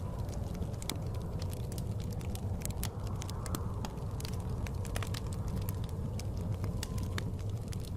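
Wood fire crackling in a fireplace with frequent sharp pops, over a steady low rumble of blizzard wind.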